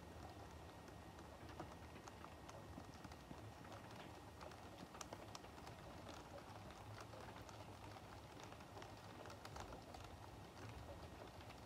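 Light rain: faint, irregular raindrop ticks and patter, over a low steady hum.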